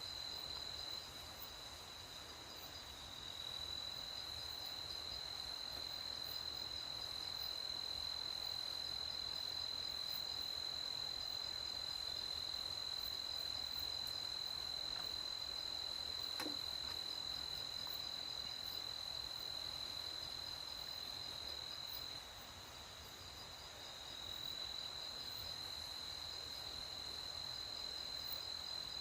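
Night insects trilling in one continuous, steady high-pitched drone, softening briefly twice, over faint rural background hiss.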